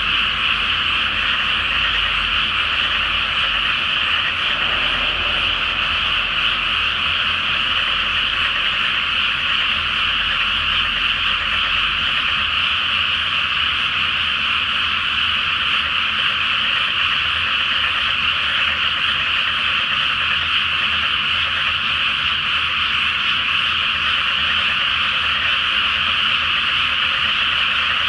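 A large chorus of frogs calling in a flooded rice paddy: a dense, unbroken wall of overlapping croaks that holds steady throughout.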